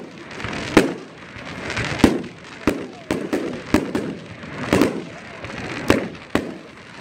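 Aerial fireworks shells bursting in a rapid series of sharp bangs, roughly one or two a second, with crackling and fizzing between the reports.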